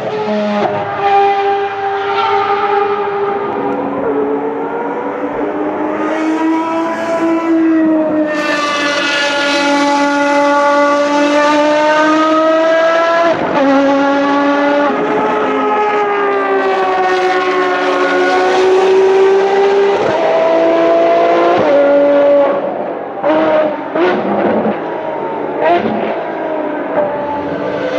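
Ferrari racing car engine at high revs on track. Its pitch climbs and falls through several gearshifts, then a string of quick blipped downshifts comes near the end.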